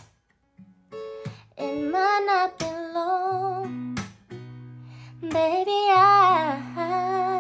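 A woman singing a slow melody with held, wavering notes over instrumental accompaniment. A brief pause comes before she comes in about a second and a half in, and a steady low sustained tone joins underneath about three seconds in.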